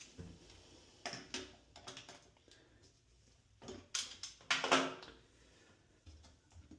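Hand work at a bathtub drain: scattered clicks, taps and scrapes of parts being handled, in a few short clusters, the loudest about two-thirds of the way through.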